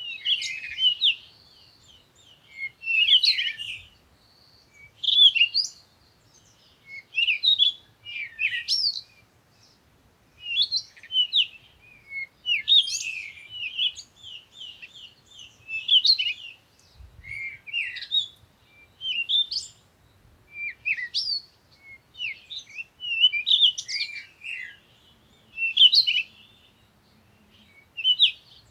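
Songbirds singing short chirping phrases, a new phrase about every two seconds.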